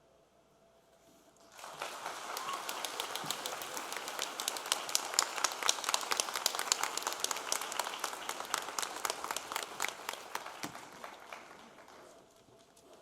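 Audience applause: many hands clapping, starting about a second and a half in and dying away near the end.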